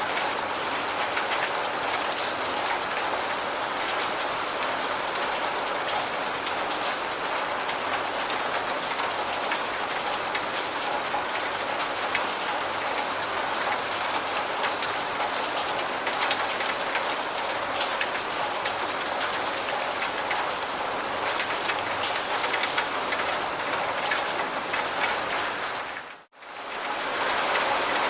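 Steady rain falling, an even hiss with single drops ticking through it. About two seconds before the end it fades briefly to near silence and swells back in.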